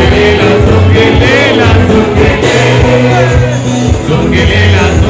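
Live band music with a sung voice and a strong, steady bass, played very loud through a festival PA with poor sound quality.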